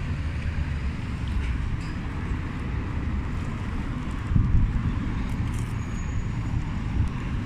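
Street traffic: a steady low rumble of passing road vehicles, briefly louder a little past four seconds in.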